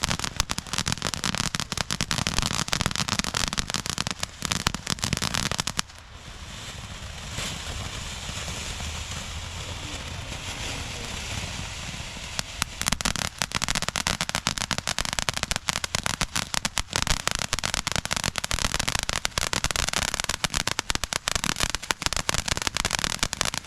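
Ground firework crackling, a dense rapid spray of tiny pops. About six seconds in it changes to a steady hiss for several seconds, then the dense crackling starts again.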